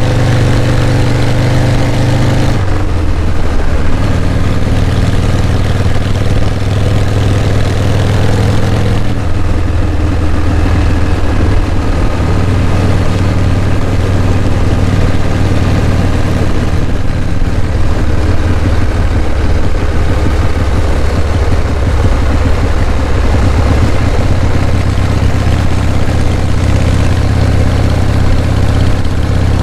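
Motorcycle engine running under way, loud and steady, with wind rush. The engine pitch climbs slightly and then drops suddenly about two and a half seconds in and again about nine seconds in, like gear changes.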